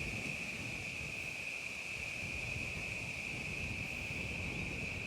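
Evening insect chorus, crickets trilling in one steady high, unbroken note, over a low rumble of wind on the microphone.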